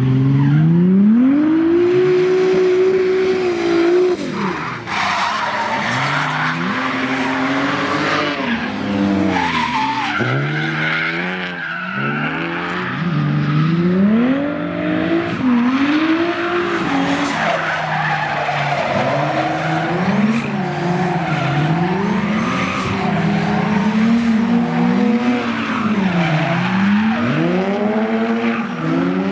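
Nissan VR38DETT twin-turbo V6 in a drifting Nissan 240SX, revving up and dropping back again and again as the car slides, over continuous tyre screech.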